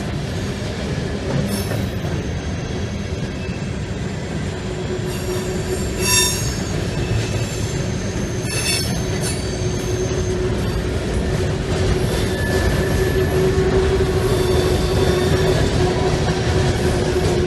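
Freight train cars rolling past on steel rails in a steady rumble, with high-pitched wheel squeals coming and going, loudest about six and nine seconds in.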